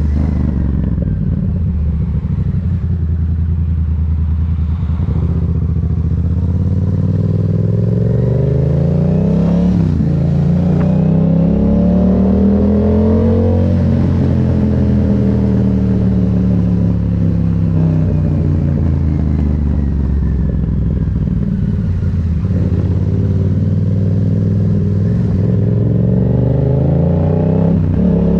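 Yamaha MT-07's 689 cc parallel-twin engine under way, pulling hard: its pitch climbs for about ten seconds with two brief breaks at gear changes, then falls slowly for several seconds as it slows, and climbs again near the end.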